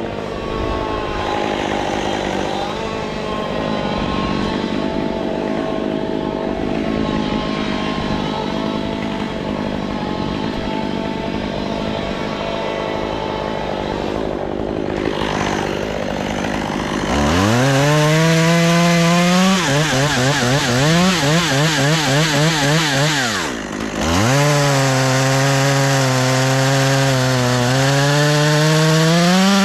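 Chainsaw engine running at a lower drone, then revved hard about 17 seconds in, its pitch wavering up and down as it cuts wood. It eases off briefly near 24 seconds, revs back up and holds steady, then drops at the very end.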